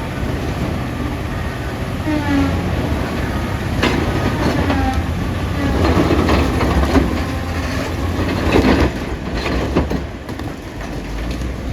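Wheel loader's diesel engine running with a steady low rumble while loading rock, with several bursts of rock clatter.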